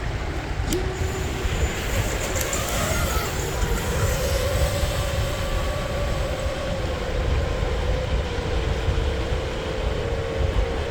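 FPV quadcopter's motors whining as it spins up and flies: the pitch rises about a second in, then holds near one note with small wobbles. Heavy wind rumble on the microphone lies underneath.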